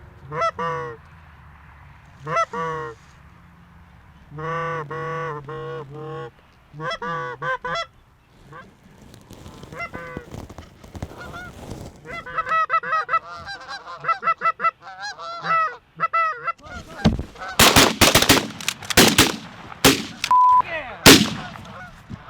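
Geese honking, single calls at first, then many overlapping as a flock comes in. A volley of shotgun blasts follows, about seven shots in quick succession over the last five seconds.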